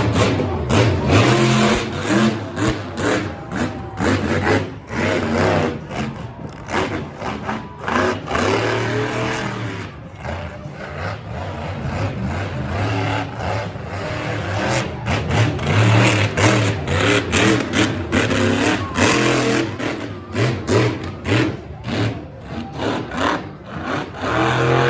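Monster truck engine revving hard in repeated surges, its pitch rising and falling, with sharp crackles over it.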